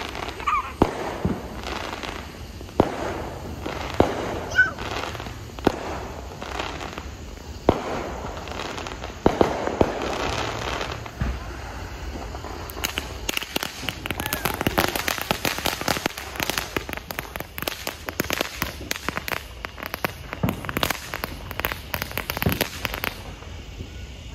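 Consumer fireworks going off: scattered sharp bangs and booms through the first half, then about halfway through a dense run of rapid crackling pops lasting around ten seconds that stops suddenly near the end.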